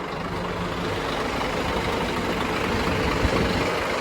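Scania 410 double-decker bus's diesel engine running as the bus moves off, growing steadily louder.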